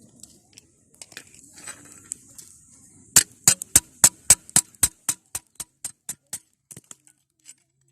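A quick, even run of over a dozen sharp taps, about four a second, starting about three seconds in and growing fainter and sparser near the end, after a few scattered clicks.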